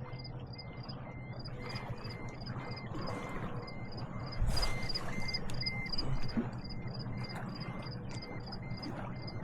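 Insects chirping in a steady, even rhythm: a fast train of high, short chirps and a slower train of lower ones, over a low steady hum. A louder rustling noise comes about four and a half seconds in.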